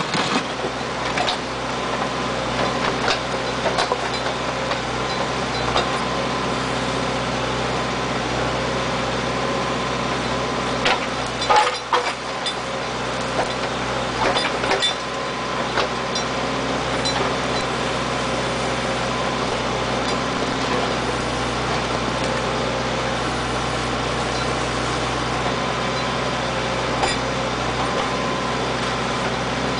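Backhoe engine running steadily, with a few sharp knocks a little before halfway through.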